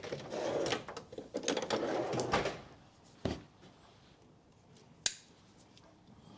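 Rustling and clicking of hands handling the brake pad wear sensor wiring and a plastic cable tie, then a low knock and a single sharp click.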